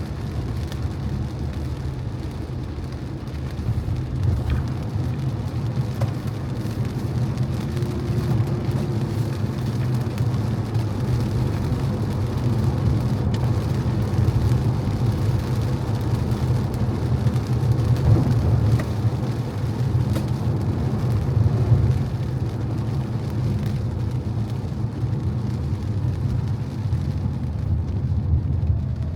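Car driving on wet streets in the rain: a steady low road and engine rumble with tyre hiss and rain, swelling a little partway through.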